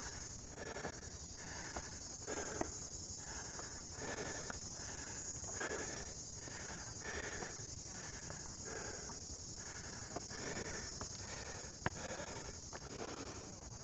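A person breathing hard and fast from a steep uphill climb, about one breath a second, over a steady high buzz of insects. A couple of sharp clicks sound near the middle and end.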